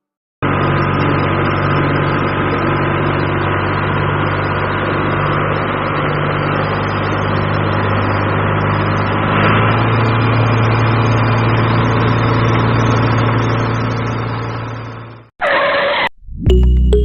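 An engine running at a steady speed with an even hum. Its note shifts about two-thirds of the way through, then it fades and stops shortly before the end.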